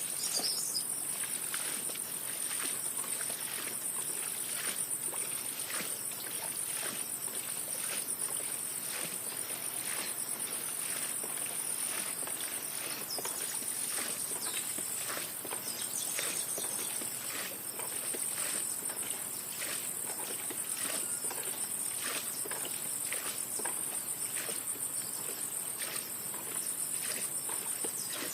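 A steady, high-pitched chorus of crickets or similar insects, with many soft irregular taps, a few a second, under it.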